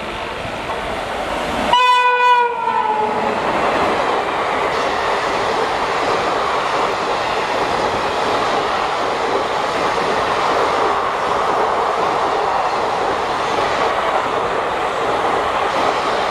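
Indian Railways WAP-7 electric locomotive sounding its horn once as it rushes through the station, falling in pitch at the end of the blast, then the steady rush and rumble of its express coaches passing at speed.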